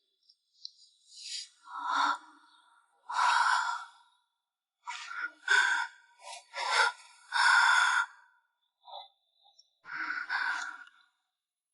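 A person breathing hard: a string of about eight loud, breathy breaths with short gaps between them.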